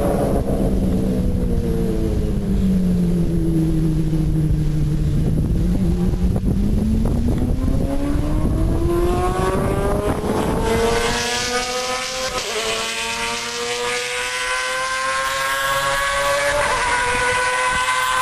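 Lamborghini Murciélago R-GT race car's V12 engine: the note falls as the car slows, then climbs steadily as it accelerates hard, with quick upshifts about two-thirds of the way through and again near the end.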